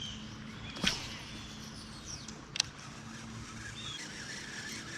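Faint bird chirps and short whistled calls over quiet outdoor ambience, broken by two sharp knocks, about a second in and past halfway.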